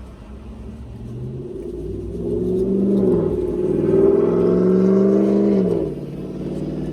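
Car engine accelerating. Its pitch and loudness climb, dip briefly about three seconds in, rise again and hold, then fall away about six seconds in.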